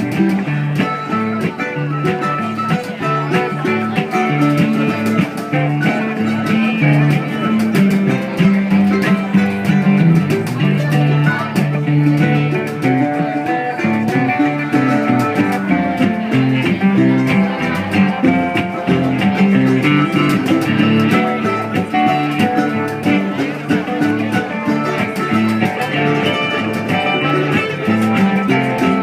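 Live band music with plucked and strummed string instruments playing steadily.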